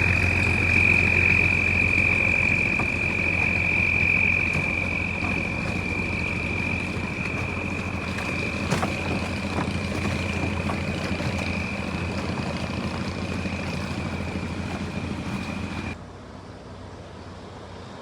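An engine running steadily, with a low hum and a steady high whine over it, slowly getting quieter. About sixteen seconds in it cuts off sharply, leaving a much quieter rumble.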